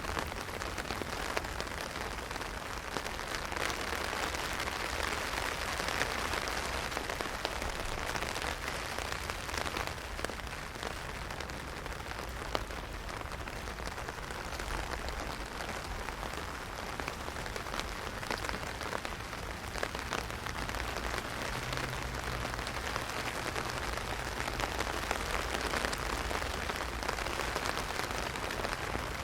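Heavy rain drumming on an umbrella: a steady patter with many single drops ticking through it.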